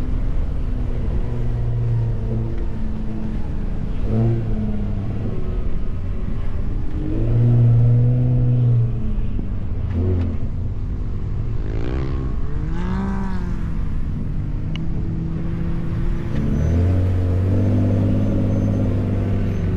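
Ford F-150 Raptor's engine pulling through sand while driving over dunes, its revs climbing and dropping several times as it accelerates and shifts. There is a louder pull about a third of the way in, quick rising revs just past halfway, and a steadier pull near the end.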